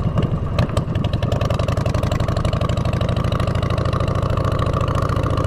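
Motorcycle engine running through straight drag pipes, a steady, loud train of exhaust pulses with a deep rumble. There are a couple of sharp clicks in the first second or so.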